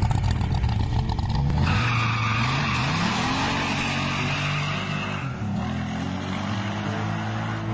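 A car engine revving, its pitch climbing about three seconds in, while the tyres squeal for a few seconds, as in a burnout.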